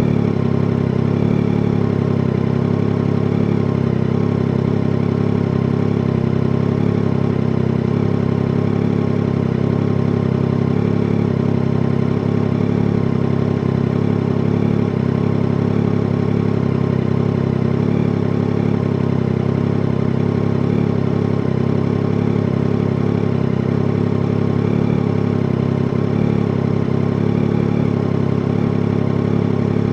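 Yamaha Tracer 9 GT motorcycle's three-cylinder engine running at a steady, unchanging engine speed, with no revving.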